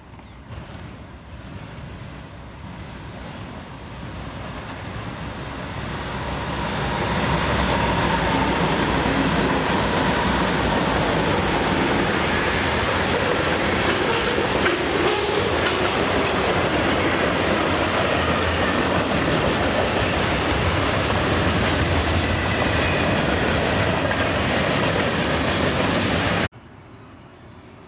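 Loud, steady rumbling and rushing noise of a moving vehicle, building up over the first several seconds, then cutting off suddenly near the end.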